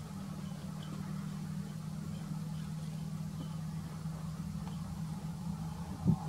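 Car engine idling: a steady low hum, with a short thump near the end.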